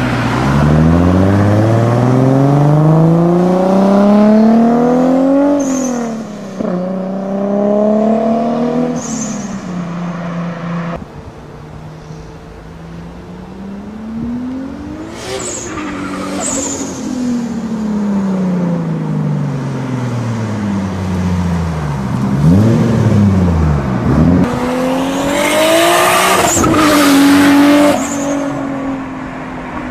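Turbocharged Toyota Supra (A80) straight-six accelerating hard, its pitch climbing steeply and dropping at each gear change or lift-off, several times over. A short, sharp blow-off valve chirp sounds at several of the drops.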